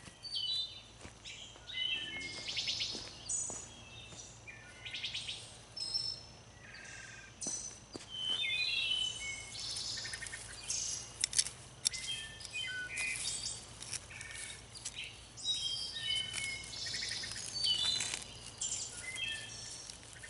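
Several songbirds singing and calling, with many short chirps, trills and whistled notes overlapping one another.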